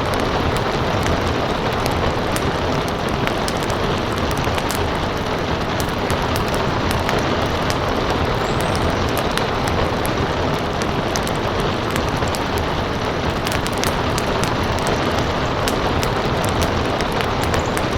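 Steady rain with a crackling wood fire, sharp pops and snaps scattered through the constant hiss of the rain.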